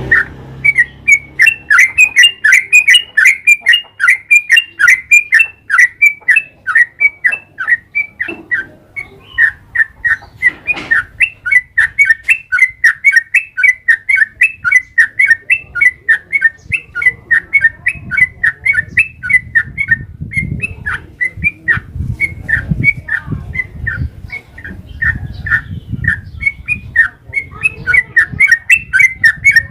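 Yellow-vented bulbul (trucukan) singing a long unbroken run of quick chirping notes, several a second, with no pause. A low rumble sits underneath from about halfway on.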